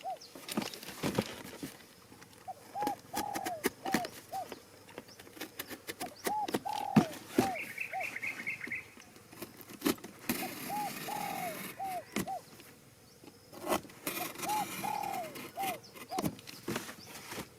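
Pigeon cooing in repeated short phrases of a few arched notes, about every two seconds, among scattered clicks and knocks. A brief high chirping trill comes about midway.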